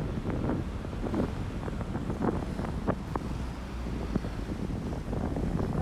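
Strong wind buffeting a phone's microphone: a steady low rumble with many brief crackles running through it.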